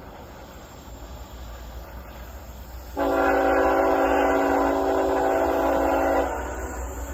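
A diesel locomotive's multi-chime air horn sounds one steady blast about three seconds in, lasting a little over three seconds, over a continuous low rumble from the train.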